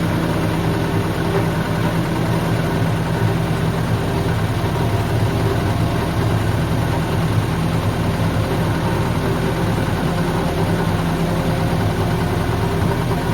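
Case 1835B skid loader's diesel engine running steadily at a constant speed.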